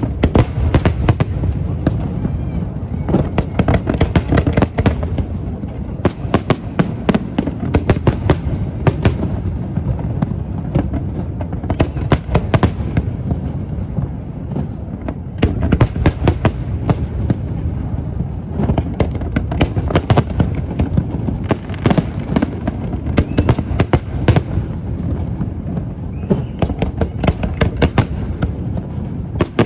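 Aerial fireworks bursting in rapid succession: many sharp bangs and crackles over a continuous low rumble.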